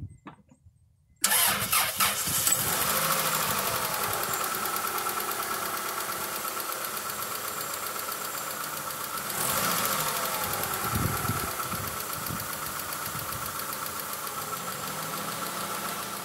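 Honda F23A1 2.3-litre four-cylinder engine starting about a second in on its first start after a full rebuild, then idling steadily, briefly louder about nine seconds in. It runs really smooth, with no valve ticking.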